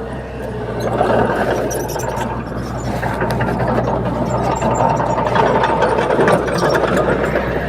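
Bulldozer's diesel engine running steadily under load, with metallic clanking and rattling over it.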